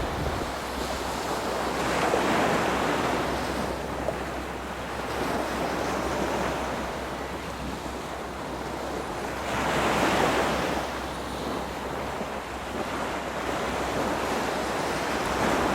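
Sea waves washing, swelling louder about two seconds in and again about ten seconds in, with wind buffeting the microphone over a low steady hum.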